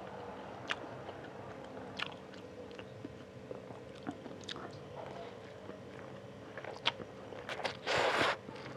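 Close-miked eating sounds of a person chewing a mouthful of spicy fried instant noodles: wet chewing with scattered lip smacks and clicks. Near the end comes a short, loud rush of air through pursed lips.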